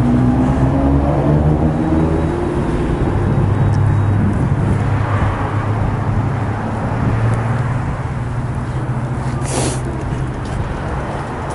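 Motor vehicle engine running steadily on the move, its pitch rising gently over the first few seconds, with road noise. There is a short rushing burst about nine and a half seconds in.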